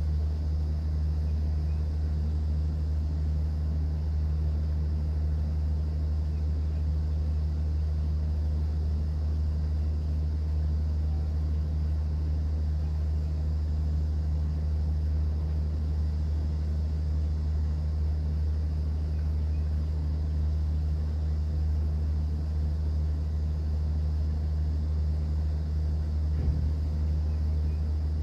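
A cruise boat's engine running steadily: a deep, even drone with a fainter hum above it and a light hiss over the top. There is a single faint knock near the end.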